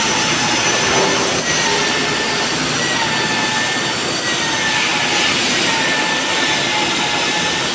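Bosch magnetic drill running steadily as it drills a steel truck chassis, with a whining tone that dips and recovers slightly in pitch under the load of the cut.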